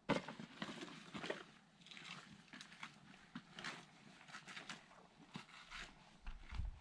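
Footsteps crunching on desert gravel and brush, an irregular run of crunches about two to three a second.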